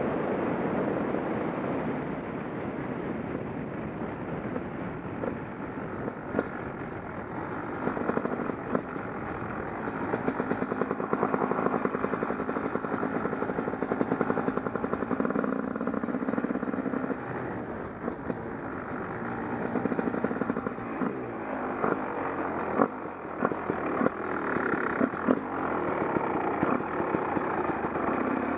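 Husqvarna WR 300 two-stroke enduro motorcycle engine running and revving up and down on the move, with wind buffeting the action camera's microphone and occasional knocks.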